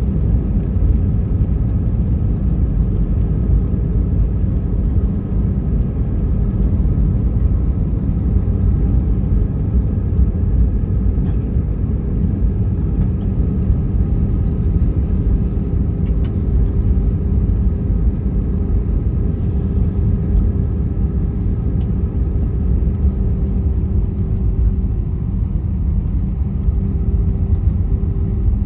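Steady rumble of an Airbus A320's engines and airflow heard from inside the passenger cabin, with a faint steady hum running through it that wavers near the end.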